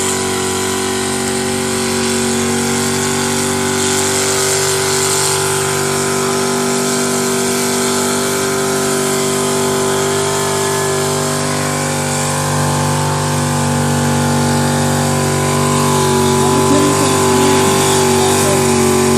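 Car engine held at steady high revs through a long burnout, with a hiss over the engine note; the revs and loudness climb slightly near the end.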